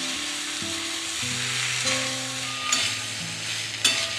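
Boiled potatoes and sliced onions sizzling in hot mustard oil in a kadai as they are stirred, with a few sharp knocks of the spatula against the pan.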